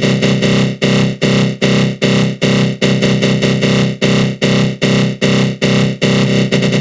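Synthesized 'attack growl' sound effect: a loud, buzzy synth tone run through a flanger, pulsing about two and a half times a second, each pulse dying away before the next begins.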